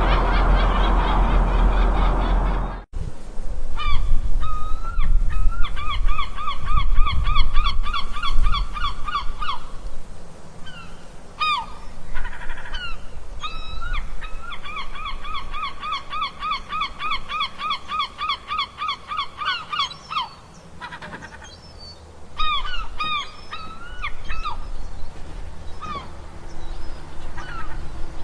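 Seagulls calling, at first over a loud rushing background. After an abrupt cut about three seconds in, clear gull calls follow, including two long runs of rapidly repeated yelping notes, about four a second, each lasting several seconds.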